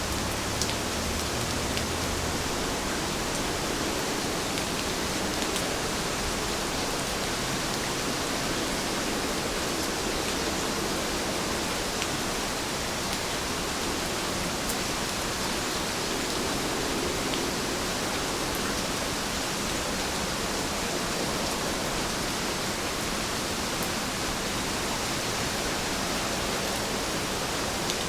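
Heavy rain falling steadily, a dense even hiss with a few faint individual drop ticks.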